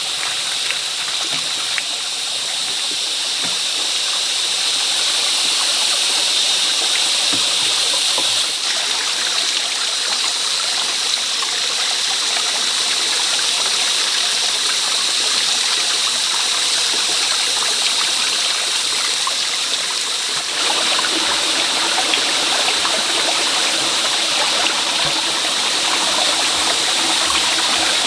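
Water running steadily in a continuous flow, its sound shifting slightly about a third of the way in and again about two thirds through.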